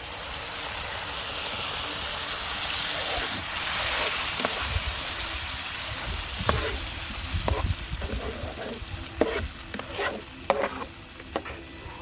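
Curry sauce with chopped tomatoes sizzling as it goes into a large pan of hot sautéed vegetables, the hiss swelling over the first few seconds and then dying down. In the second half, a utensil stirring the pan gives a series of short knocks and scrapes against the metal.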